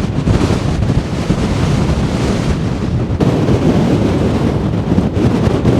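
Strong wind blowing across the microphone: a loud rushing noise with a heavy low rumble.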